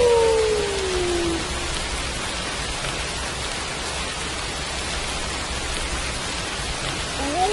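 Steady rain falling. A wolf's howl slides down in pitch and fades out in the first second and a half, and a new howl rises in near the end.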